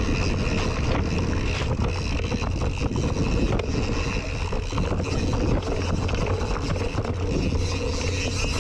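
Mountain bike descending a dirt trail: wind buffeting the action camera's microphone over a steady low rumble of tyres, with constant rattling and clattering from the bike.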